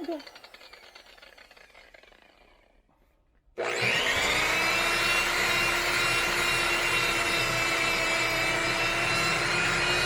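Orbital buffer switched on abruptly about a third of the way in, then running steadily with a high motor whine and a rubbing hiss as the pad works polishing compound on car paint. Before that, a fading sound dies away to near silence.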